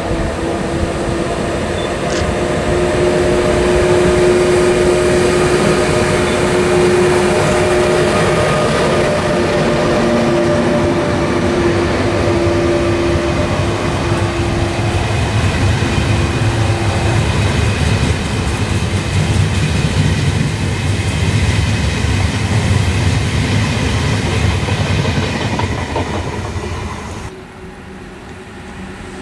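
Railjet passenger train hauled by an ÖBB class 1116 Taurus electric locomotive passing at speed. There is a steady electric whine, then the rolling rumble and wheel clatter of the coaches, cut off suddenly near the end.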